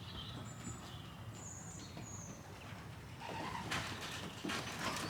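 Pigeons moving about in a loft: a few faint high chirps, then from about three seconds in a busy run of quick scuffles, knocks and wing rustles.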